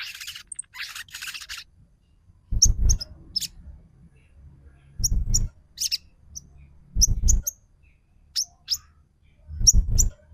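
Sogon trotol lure call: a harsh, rasping chatter for the first second and a half, then short, high, sharp chirps scattered through the rest. Four dull low thumps, louder than the calls, come at roughly two-second intervals from about two and a half seconds in.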